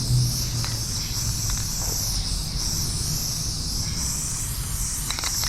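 Steady, high-pitched chorus of insects over a low background hum, with a rapid run of clicks starting near the end.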